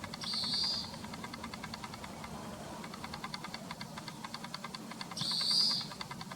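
Two short buzzy calls of an oriental greenfinch, one near the start and one about five seconds in, over a steady fast high ticking of about eight to ten pulses a second.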